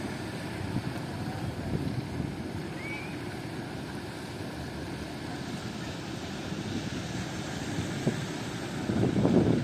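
Strong coastal wind buffeting the microphone: a gusty low rumble that swells louder near the end.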